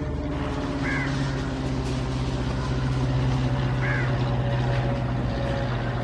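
Steady low hum of an approaching WAP7 electric locomotive, with two short bird calls, about a second in and about four seconds in.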